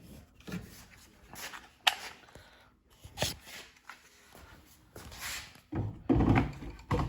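Scattered knocks, clicks and rubbing from hands handling a table saw and its parts, with a louder cluster of low thumps about six seconds in.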